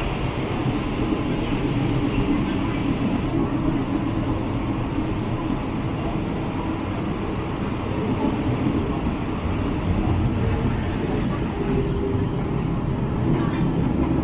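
Steady rumble of a moving passenger train, with a brighter hiss joining about three seconds in.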